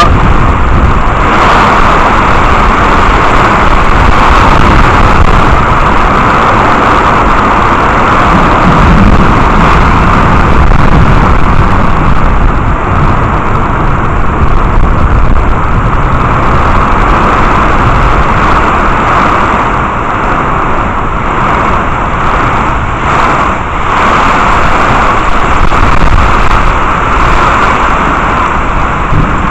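Thunderstorm downpour: a loud, steady rushing of heavy rain with a low, uneven rumble underneath.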